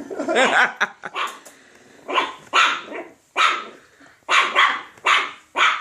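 Puppy barking at a macaw: about ten short, harsh barks in quick succession.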